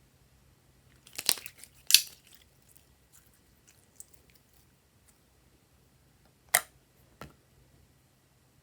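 Short crackly, crunchy sounds from slime and its mix-ins being handled: a cluster of sharp crackles about a second in, then a single crackle followed quickly by a softer click about two-thirds of the way through.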